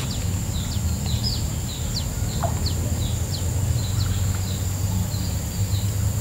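A small bird chirping over and over, short high chirps about three a second, over a steady high thin whine and a low steady hum.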